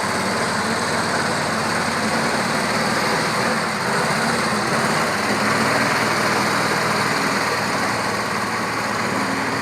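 Mustang 440 skid steer's engine running steadily.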